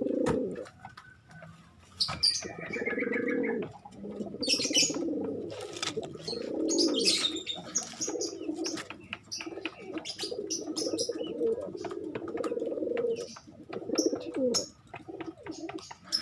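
Domestic pigeons cooing over and over in low, rolling coos, with wing flaps and short high chirps mixed in: courtship cooing as a male and female are being paired.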